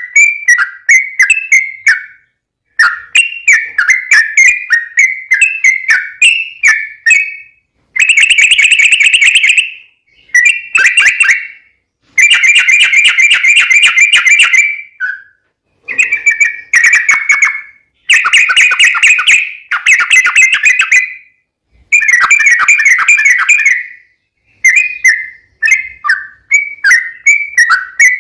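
Yellow-vented bulbul (trucukan) singing: strings of short, quick chirps, then a series of dense, bubbly chattering runs of two to three seconds each, broken by brief pauses. Near the end it goes back to quick separate chirps.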